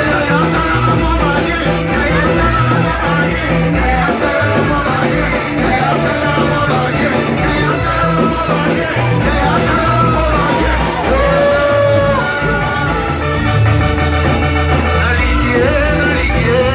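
Church worship band playing loud, upbeat music with a steady bass beat, and singing over it.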